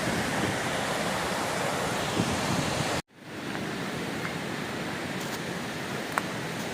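Waterfall rushing: a steady, even wash of falling water, with some wind buffeting the microphone in the first few seconds. The sound drops out for an instant about three seconds in, at a cut, and comes back as an even rush.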